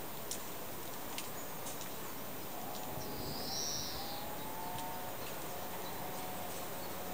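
Outdoor garden ambience: a steady background hiss with a couple of faint clicks, and about halfway through a single bird call that rises and falls, lasting under a second.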